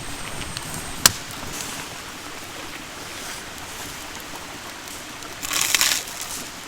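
Wood campfire burning with a steady faint crackle, one sharp pop about a second in, and a brief louder rush of hiss near the end.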